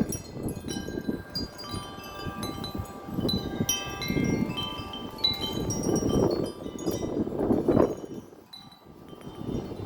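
Wind chimes ringing hard in strong gusts, many different tones struck and overlapping as they ring out, over the low rush of wind gusting across the microphone. The wind drops for a moment near the end before the next gust.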